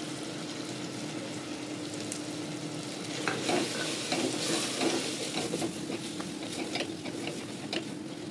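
Onion, tomato and spice powders frying in oil in an aluminium pressure cooker, a steady sizzle, with a wooden spatula stirring and scraping against the pot from about three seconds in.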